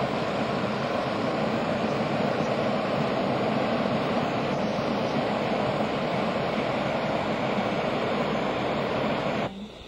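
Hot air balloon's propane burner firing in one long steady blast, loud enough to drown out voices; it cuts off abruptly shortly before the end.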